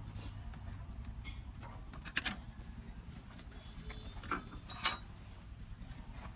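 Scattered metallic clinks and knocks of tools and parts being handled during tractor gearbox repair work, the sharpest with a brief ring about five seconds in, over a low steady hum.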